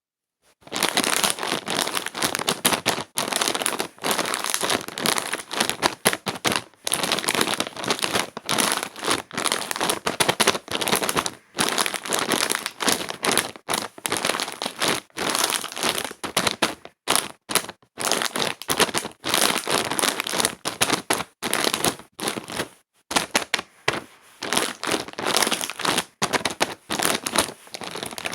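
Close, continuous crinkling and crackling of something being crumpled and handled, with many short breaks.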